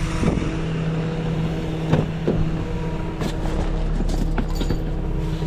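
Tow truck engine and hydraulic system running with a steady hum as the wheel lift raises a pickup higher. A few short knocks and clanks come through along the way.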